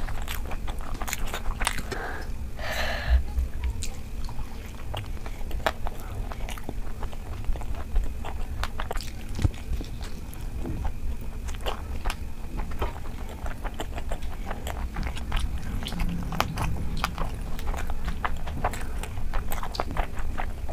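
Close-miked chewing of hand-eaten rice and curry, with many quick mouth clicks and smacks right through.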